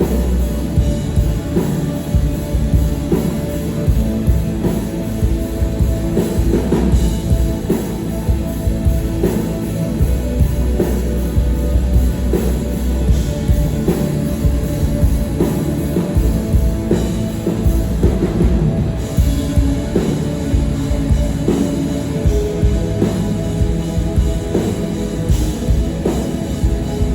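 A rock band playing live and loud, the drum kit hitting a steady beat under sustained band sound.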